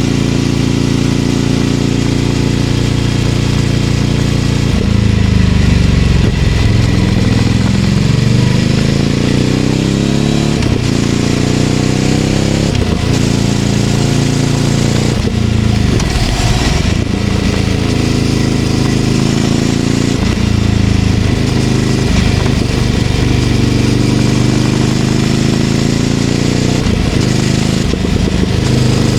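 Ducati Scrambler 800's air-cooled L-twin engine running through a Leovince LV-10 exhaust while riding. It holds steady revs for the first few seconds, then the engine speed repeatedly drops and climbs again as the bike slows and accelerates.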